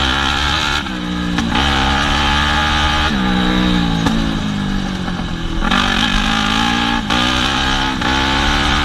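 Yamaha WR250F's single-cylinder four-stroke engine being ridden hard, revving up and down with several brief throttle cuts as the rider works the throttle and gears.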